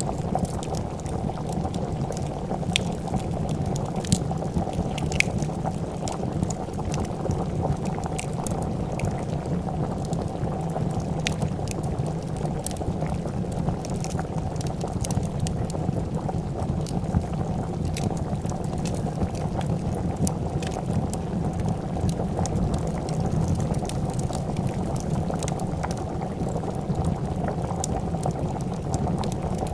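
A pot of soup at a steady rolling boil, bubbling continuously, over a wood fire that crackles with scattered sharp pops.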